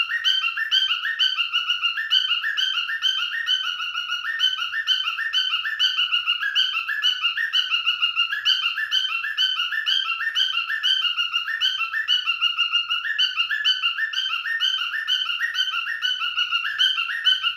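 Cockatiel whistling and chirping: a fast, unbroken run of short, high, rising whistled notes, several a second, in a steady repeating pattern.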